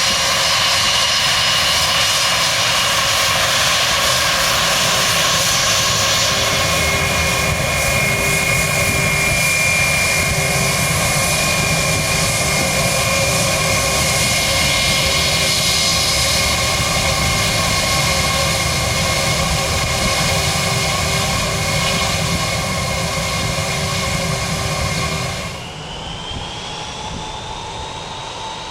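Airliner engines running loud and steady, a high whine held over the engine noise. Near the end the sound drops abruptly and a whine rising in pitch begins.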